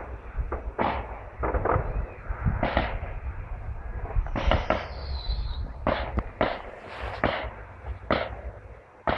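Fireworks display at close range: a rapid run of bangs from shells launching and bursting, over a steady low rumble. About four seconds in, a whistling firework falls in pitch for a second or so.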